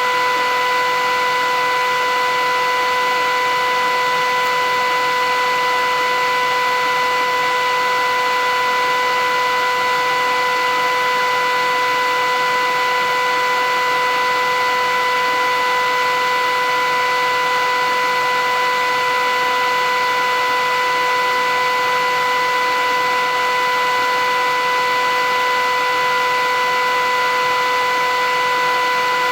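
Philips 8000 series vacuum cleaner running steadily: a constant motor whine over an even rush of air, unchanging throughout.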